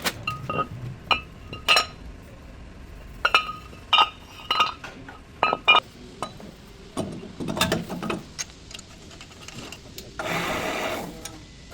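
Metal tools and brake parts clinking and knocking during front brake work, about a dozen sharp strikes, many ringing with the same clear metallic tone. A rushing noise lasting about a second comes near the end.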